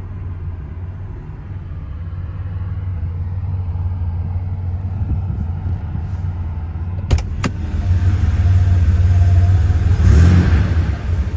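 1989 Porsche 911 Turbo's air-cooled turbocharged flat-six running at idle with a steady low rumble that grows gradually louder. Two sharp clicks come about seven seconds in, and a brief rush of noise about ten seconds in.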